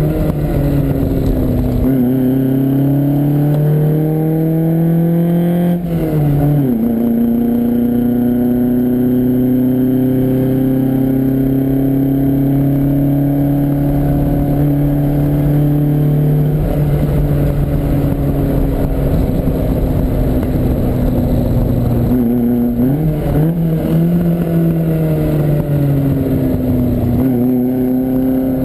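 Lancia Fulvia's narrow-angle V4 engine heard from on board, pulling hard with its note climbing in each gear and dropping at the gear changes, sharply about six seconds in and again after twenty-two seconds; in between it eases off to a steadier note for a few seconds.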